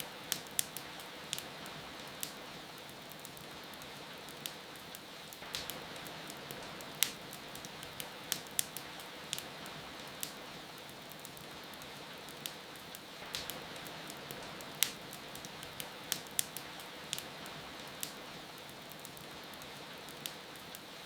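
Wood fire crackling with irregular sharp pops, several a second at times, over a steady hiss of rain.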